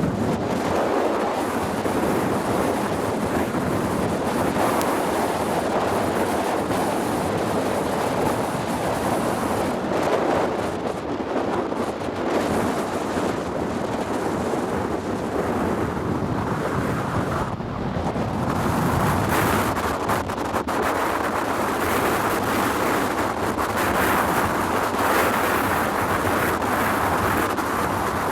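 Storm-force wind buffeting the microphone in a steady, loud noise that rises and falls in gusts, with sea waves breaking beneath it.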